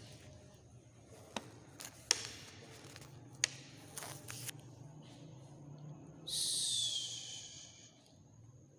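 A few sharp clicks, then a loud, harsh, hissing screech lasting almost two seconds and falling slightly in pitch, over a faint steady high whine.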